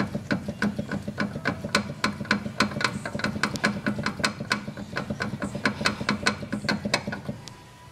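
Strut top mount of a VW Passat B1 rattling in a quick, even series of clicks, about four a second, over a steady low hum; the mount still rattles. The clicks stop shortly before the end.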